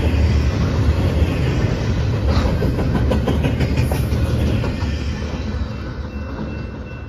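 Intermodal freight train of container cars rumbling past on the rails, with a run of clicking and rattling in the middle, then fading as the rear of the train passes and moves away.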